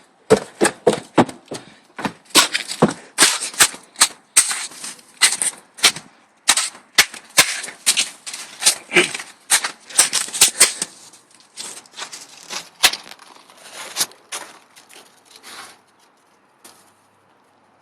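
Snow crunching in quick, irregular crunches, several a second, thinning out near the end.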